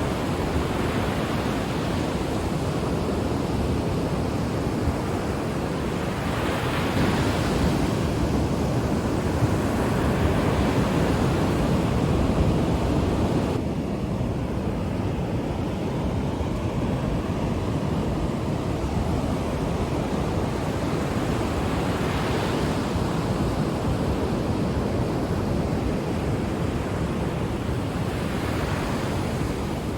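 Ocean surf breaking on a shore: a continuous wash of water noise that swells into a brighter hiss as a wave breaks, roughly every fifteen seconds.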